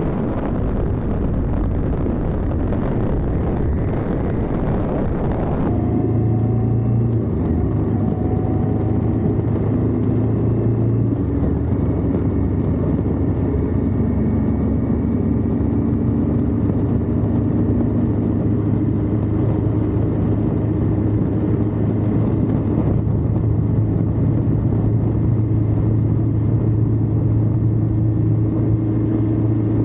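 Indian Scout's V-twin engine running steadily as the motorcycle cruises, heard from a camera mounted low on the crash bar. For the first few seconds heavy wind rush on the microphone covers it, then it cuts away and the engine's steady drone is clear, its pitch shifting slightly a few seconds later.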